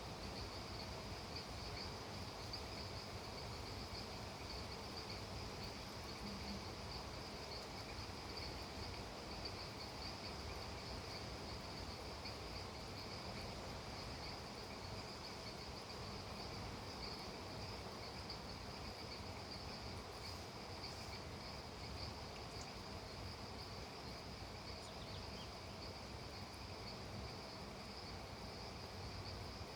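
Steady chorus of insects, a continuous high-pitched shrill trilling, faint and unbroken, over a low even hiss.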